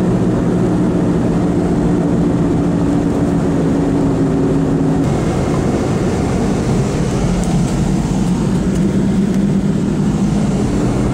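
Car driving, heard from inside the cabin: a steady drone of engine and road noise, with the engine's pitch shifting about halfway through.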